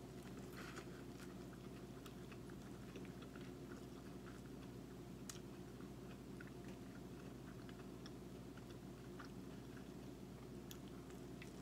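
A person biting into and chewing corn on the cob, close to the microphone: faint, scattered small clicks and crunches of the kernels over a steady low hum.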